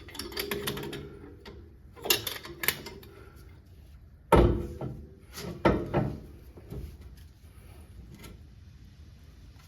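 Metal tools and parts being handled and knocked during a car axle job: scattered clanks and knocks, the loudest about four seconds in, with a few more soon after.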